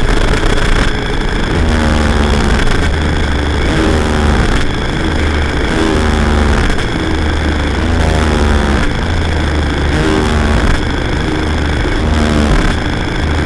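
Loud electronic noise-drone music: a heavy low hum that pulses in roughly one-second blocks under a dense wall of hiss. Repeating sliding tones echo through it from delay and granular pitch effects.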